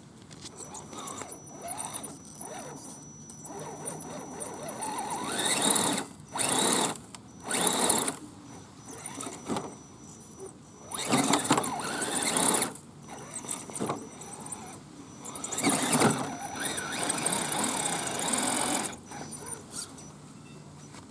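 Electric drive motor and gears of a 1/10-scale RC 4x4 truck whining in repeated throttle bursts of a second or two, some rising in pitch, with quieter stretches between.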